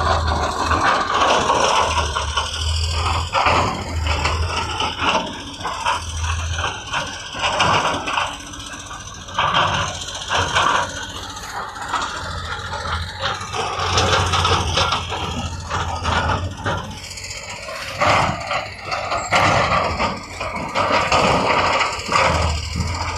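Heavy construction machinery working, with irregular rattling and scraping clatter over an intermittent low engine hum.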